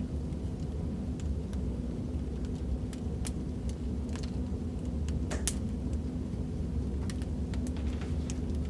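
Crackling fireplace fire: a steady low rumble with irregular sharp pops and snaps, the loudest pop about five and a half seconds in.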